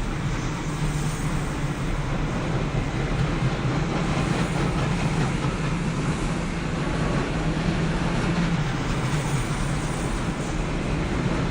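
Freight train rolling past steadily, with a constant low hum under the noise of the moving train.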